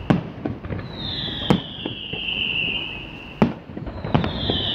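Fireworks display: four sharp bangs of shells bursting, the loudest a little after the three-second mark, with a high whistle that slowly falls in pitch about a second in and again near the end.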